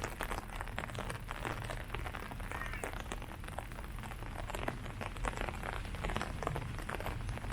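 Rain falling on leaves: a steady patter of countless small drop taps, with a low steady rumble underneath.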